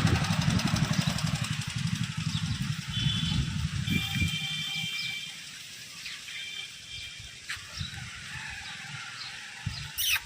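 A motor vehicle engine running, fading away over the first five seconds or so until only a quieter outdoor background is left.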